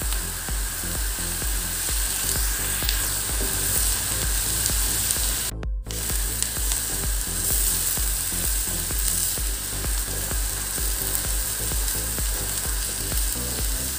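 Chopped onions sizzling as they sauté in hot oil in a frying pan, stirred with a spatula. The sound cuts out for a moment about halfway through.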